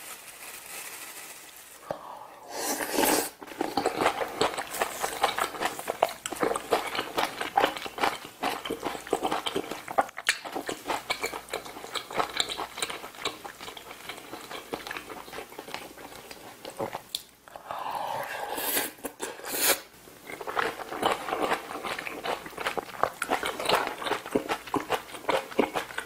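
Close-miked eating of rice mixed with kimchi-jjim stew: wet chewing and mouth sounds with a spoon and chopsticks clicking against the bowl. It opens with a plastic bag of seaweed flakes being shaken over the bowl.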